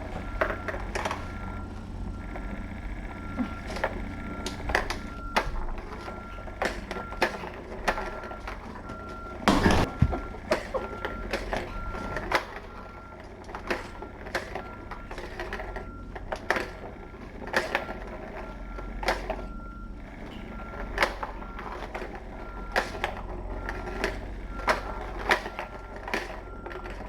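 Kittens playing: irregular clicks, taps and knocks of toys and paws, with one louder thump about ten seconds in. Under it runs a low hum and a high electronic beep repeating about twice a second.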